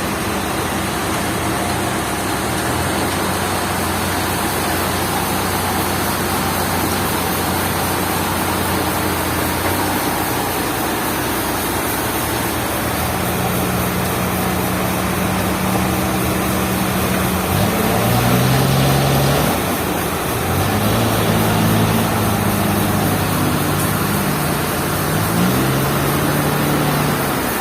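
A heavy engine running, its pitch stepping up and down several times as its speed changes, over a steady hiss.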